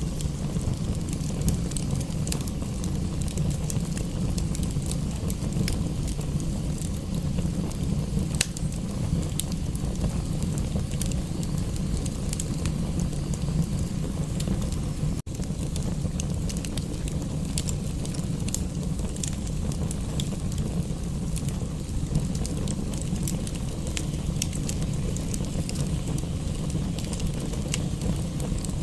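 Fireplace wood fire crackling, with frequent small sharp pops over a steady low rumble. It cuts out for an instant about halfway through.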